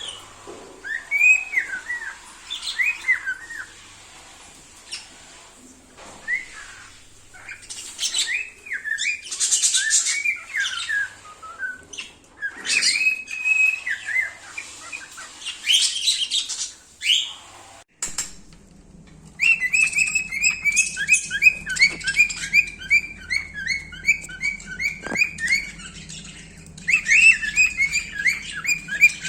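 Cockatiel whistling and chirping in short rising and falling notes. Past the middle a low steady hum comes in, and the bird breaks into fast runs of repeated chirps, several a second.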